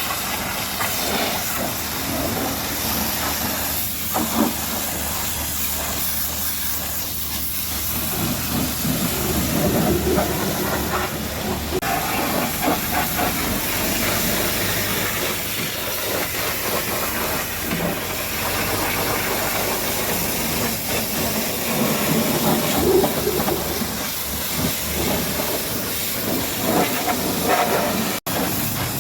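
High-pressure washer jet hissing steadily as it sprays water onto a truck's bodywork, swelling and easing as the spray moves, with a split-second break near the end.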